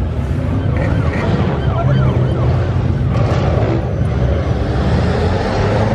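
Many car engines running and revving together as a crowd of cars pulls away, with short yells over the engines in the first couple of seconds.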